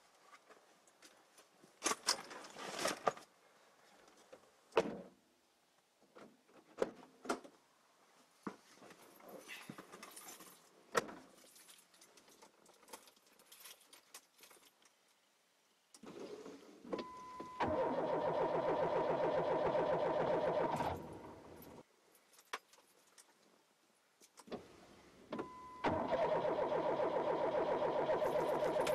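Scattered clicks and knocks, then a car's starter cranking the engine for about four seconds, stopping, and cranking again near the end, with a steady high tone over it. The engine does not catch, a sign of a car that won't start.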